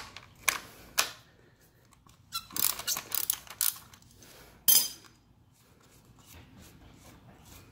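Ratchet and hex-bit socket work on a 10 mm Allen bolt: a string of short metallic clicks and knocks, bunched together about two and a half to four seconds in, with the loudest knock just before five seconds, then faint ticking.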